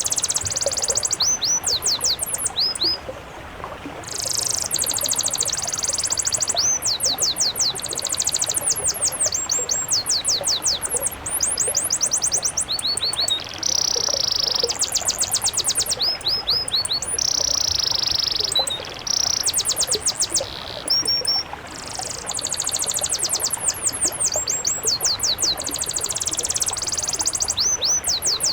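Songbird song: rapid series of very high, sweeping whistled notes alternating with hissy, buzzy phrases, with brief pauses between bouts.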